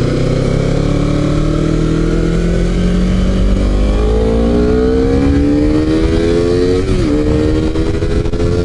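Honda CBR250RR's parallel-twin engine, fitted with an SC-Project exhaust, pulling up through the revs under steady acceleration. About seven seconds in the pitch drops sharply for an upshift, then begins climbing again.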